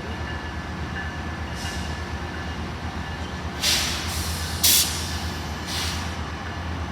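Train standing at the platform with a steady low engine rumble, and four short hisses of air from its brakes, the loudest about two-thirds of the way through.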